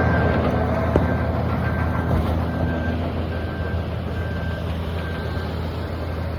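Heavy diesel earthmoving machine running steadily under a repeated high reversing-alarm beep, which stops about five and a half seconds in while the engine sound slowly fades.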